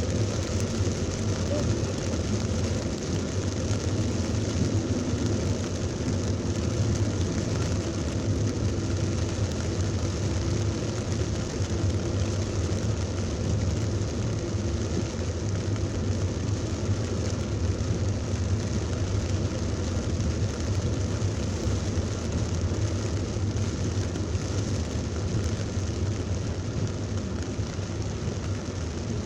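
A car driving through heavy rain: a steady low rumble from the vehicle with the even hiss of rain and spray.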